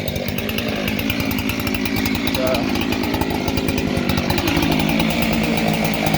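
Husqvarna 365 two-stroke chainsaw, ported to about 372 output and fitted with a 36-inch bar, running steadily at an even pitch while it warms up.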